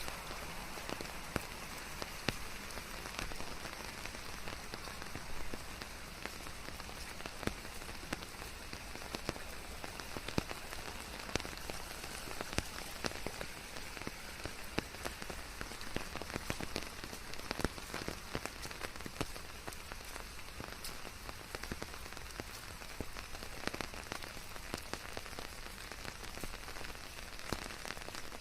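Steady rain falling on leaves, an even hiss dotted with many close, individual drop hits.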